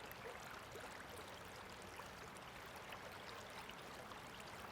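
Faint, steady rush of flowing river water, with a few tiny ticks scattered through it.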